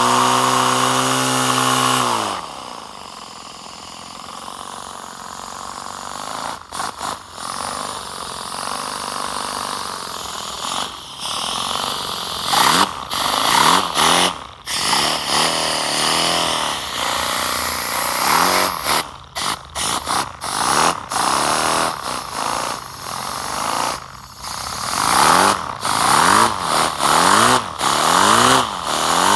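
Small homemade paper flat-twin engine running on compressed air, with a buzzing whir and the hiss of escaping air. It runs fast and steady, slows abruptly about two seconds in, then speeds up and slows down again and again as the air supply surges, its pitch rising and falling.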